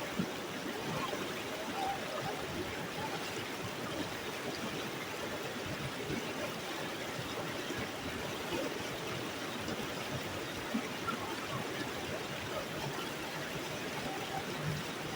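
Flowing water of a mountain stream, a steady even rushing that holds unchanged throughout.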